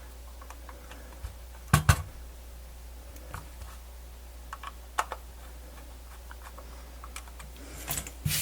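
Light, scattered clicks and taps of small parts and screws being handled while a portable MiniDisc player is reassembled, with a sharp double click about two seconds in and a cluster of clicks near the end. A low steady hum runs underneath.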